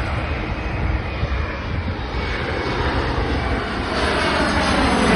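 Jet airliner on landing approach passing close overhead: a steady jet engine rush with slowly sweeping tones, growing louder about four seconds in as the aircraft nears.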